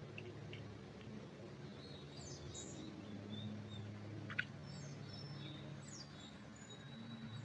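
Small birds chirping and calling on and off over a low, steady background hum, with one short, sharp tick about four and a half seconds in.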